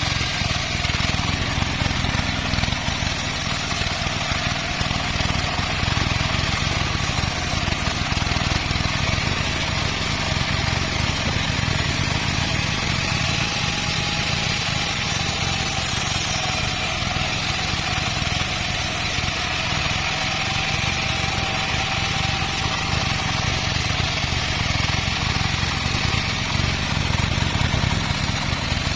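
Band sawmill running steadily, a continuous engine-like drone with a faint wavering whine.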